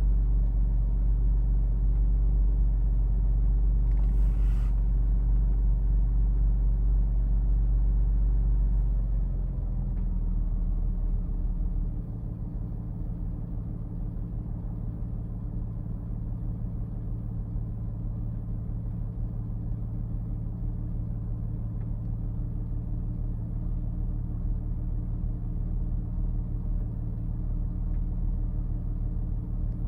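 Porsche Boxster's flat-six engine idling after a cold start; about nine seconds in, the fast cold idle steps down to a lower, quieter steady idle.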